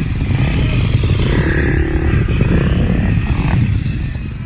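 Engine of a 65cc two-stroke motocross bike running loud, with a heavy low rumble; it eases off a little near the end.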